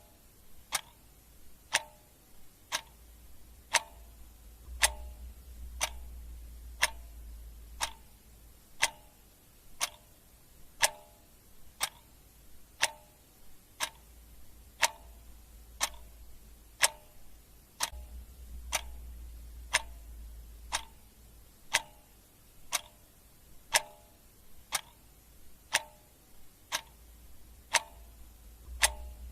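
Clock ticking steadily, about one tick a second, the ticks alternating louder and softer in a tick-tock.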